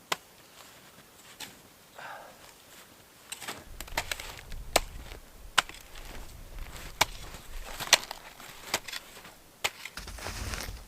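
Compact snow shovel striking and chopping into packed snow, sharp crunching hits about once a second as snow is piled into a quinzee mound, with a low rumble underneath from about three and a half seconds in.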